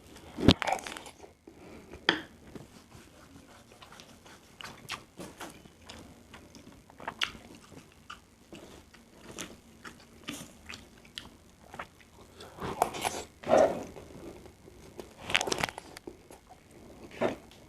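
Close-miked mukbang eating of fried rice: chewing and mouth sounds with irregular short clicks, and louder bursts scattered through, the loudest about half a second in and again between about 13 and 16 seconds in.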